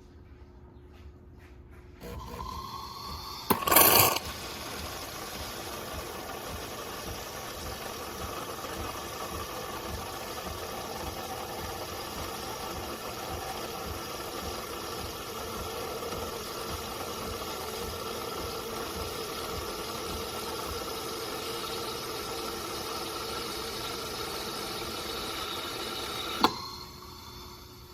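De'Longhi Magnifica Start automatic espresso machine running a cycle. It starts about two seconds in with a loud burst, runs steadily for over twenty seconds, and stops with a click near the end.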